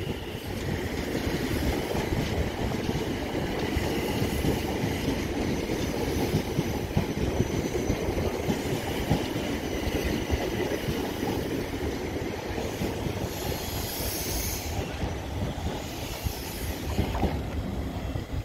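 South Western Railway electric multiple unit moving out along the platform: a steady rumble of wheels on rail with a thin high whine over it. A brief hiss about three-quarters of the way through.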